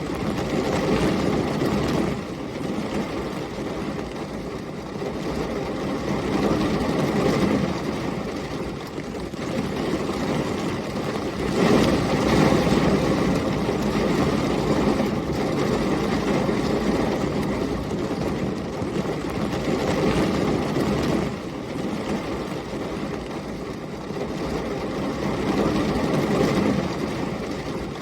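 Heavy rain and storm wind, a dense steady rush that swells and eases every few seconds with the gusts.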